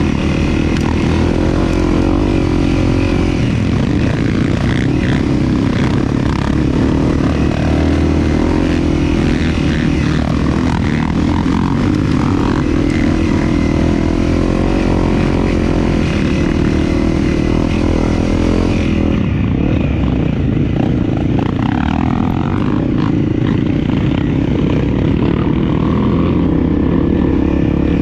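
Dirt bike engine running steadily as the bike is ridden along a trail, its pitch shifting a little with the throttle.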